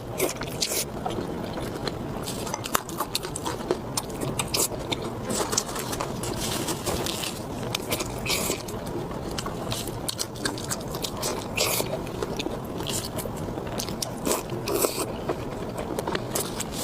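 Close-miked eating: a person chewing and biting food, with many short wet mouth clicks and smacks throughout.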